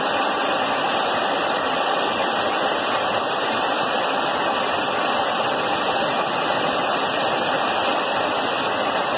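Jet engine noise: a steady, even rush that does not rise or fall.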